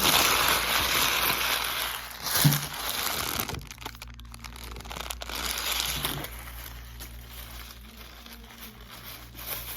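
A wrapper being crumpled and crinkled, loudest in the first few seconds, with a second shorter spell of crinkling around the middle before it fades off.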